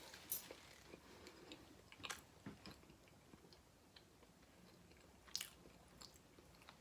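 Faint close-up mouth sounds of a person chewing food, with a few short, sharp smacks scattered through, the strongest about two seconds and five seconds in.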